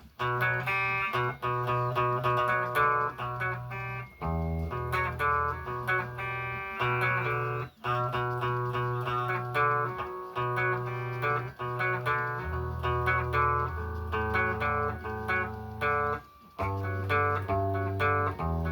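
A guitar played solo: picked notes ringing over a low, repeating bass line, with short breaks about four, eight and sixteen seconds in.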